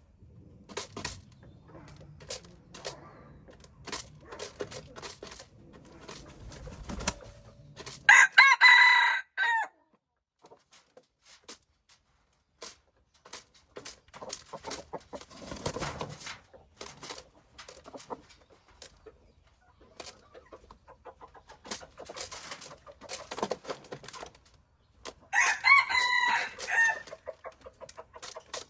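Rooster crowing twice, about eight seconds in and again near the end, each crow about a second and a half long. Softer clucking and short clicks come in between.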